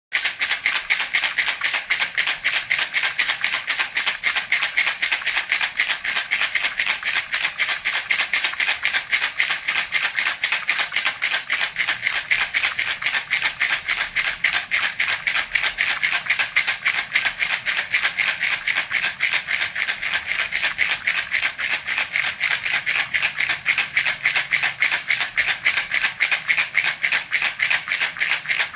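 Baby's rattle (jhunjhuna) shaken in a steady, even rhythm, several shakes a second, giving a continuous bright rattling.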